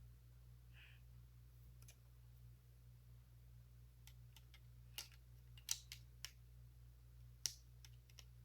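Small plastic Lego pieces clicking as they are handled and pressed together: scattered sharp clicks, a few faint ones early and a busier run of louder clicks in the second half, over a low steady hum.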